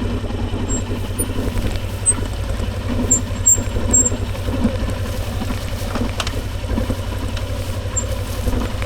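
Motorcycle engine running steadily with an even low rumble and no revving.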